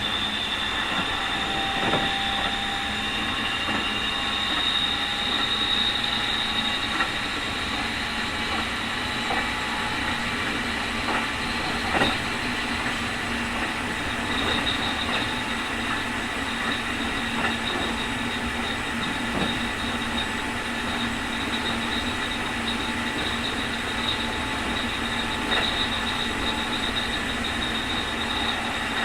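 Keikyu 2000 series electric train (Mitsubishi field-chopper car) running at speed, with a strong high whine over the rail noise: the so-called "jet sound" of an abnormal-noise car, unusually strong for Keikyu. The whine rises slightly in the first few seconds and pulses from about halfway on, with a few sharp clicks from the rails.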